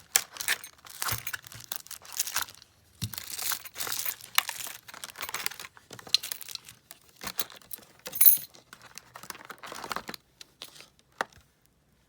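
Packaging being handled and opened, crinkling and tearing in irregular rustles, with a sharp click about eight seconds in.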